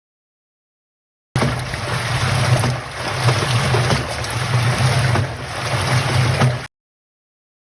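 Washing machine running, a steady low motor hum under a loud rush of water-like noise. It cuts in about a second in and cuts off abruptly a second before the end.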